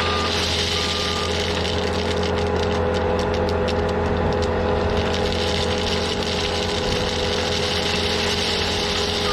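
Engine of a piece of heavy grading equipment running steadily, with its reversing alarm beeping twice in the first second or so and a spell of light rattling clicks in the middle.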